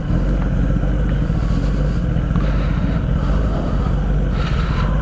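Motorcycle engine running steadily at low revs, with no clear revving.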